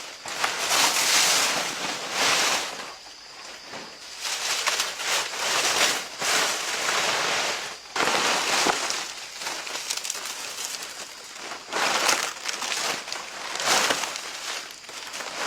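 Leaves and branches rustling and crackling in repeated bursts, each about a second long, as storm debris is handled.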